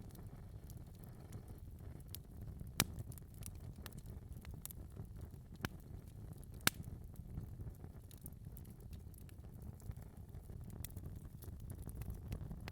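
Fire in a fireplace crackling over a low steady rumble, with scattered small snaps and two louder pops, one about three seconds in and one about halfway through.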